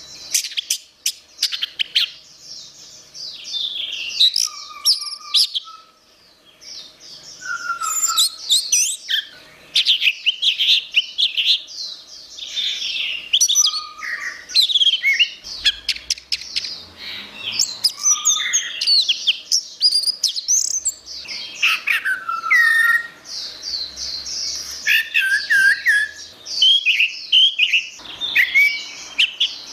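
Orange-headed thrush (anis merah) singing a long, fast, varied run of whistled and chirping phrases, with a brief pause about six seconds in.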